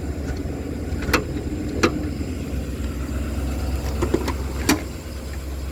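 An engine idling steadily, with three or four sharp metal clicks from the service body's Summit drawers and latches being worked.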